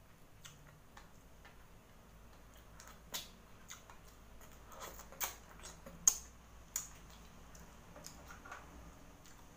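Close-miked eating of boiled seafood: wet mouth clicks and smacks while chewing. A handful of sharp ones come through the middle, the loudest about six seconds in.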